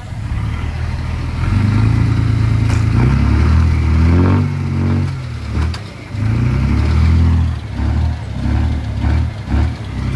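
Heavy earthmoving machine's diesel engine revving and easing off repeatedly under load, its pitch rising and falling, with a short drop about six seconds in.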